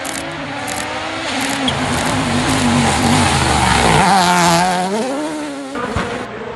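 Rally1 car's 1.6-litre turbocharged four-cylinder engine at full throttle, its pitch climbing in steps through the gears. It is loudest about four seconds in, then the pitch drops sharply and climbs again as the car accelerates once more.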